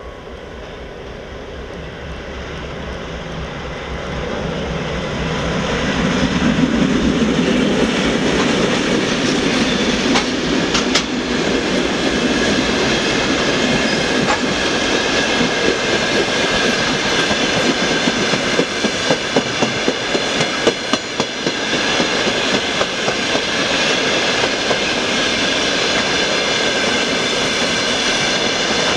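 Broad-gauge diesel-hauled passenger train approaching and passing close by: the sound swells over the first few seconds, the locomotive's engine rumble passes about six to ten seconds in, then the coaches roll by with a regular clickety-clack of wheels over the rail joints.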